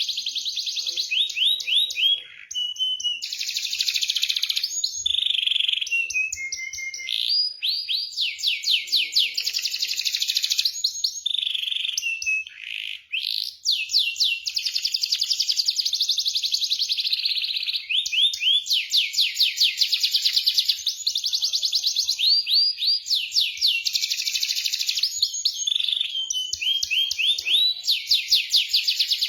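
Domestic canary singing in fast rolling trills and rapid repeated chirps, a high, almost unbroken song with short breaks about two and thirteen seconds in. It is a canary lure song (pancingan) of the kind played to stir a silent canary into singing.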